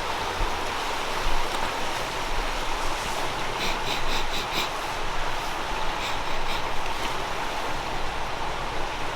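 Steady outdoor rushing noise, with a few light clicks in the middle.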